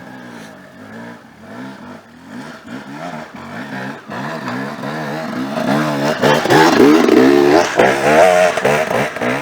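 Dirt bike engine revving, its pitch rising and falling again and again with the throttle. It grows louder from about halfway through and is loudest near the end.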